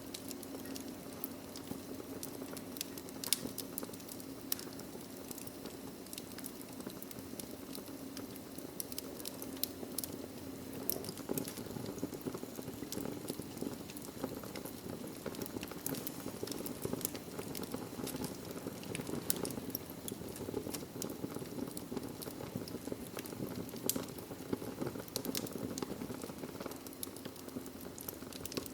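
Wood fire of burning logs in a fireplace: a steady low rushing hiss of flames with frequent small crackles and pops scattered throughout, a few sharper ones standing out.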